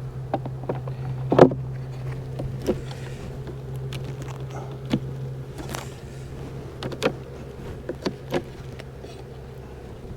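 Honeybees humming steadily from an open hive, with scattered sharp wooden clicks and knocks as frames are handled and set into the hive box. The hum eases a little about halfway through.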